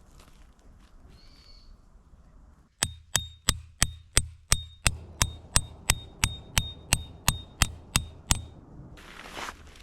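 A hammer driving a metal tent peg into the ground: about seventeen even blows, roughly three a second, each with a short metallic ring, starting a few seconds in and stopping shortly before a brief rustle.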